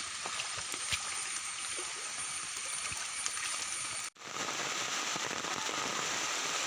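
Heavy rain falling steadily: an even hiss dotted with scattered drop ticks, cutting out for an instant about four seconds in.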